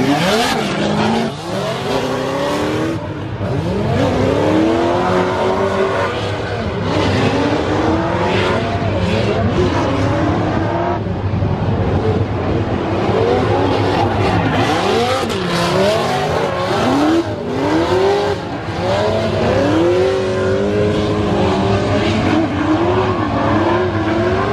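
Drift cars on track, their engines revving up and down over and over with the throttle, often more than one at a time, over steady tyre noise. Near the end one engine's pitch wavers quickly up and down as the throttle is pulsed.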